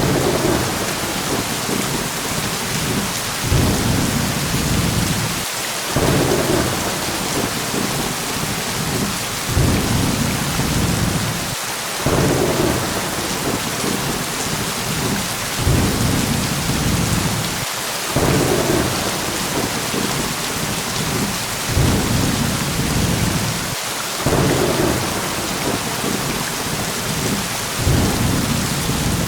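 Steady heavy rain with thunder rumbling over and over, a low roll swelling and fading every few seconds.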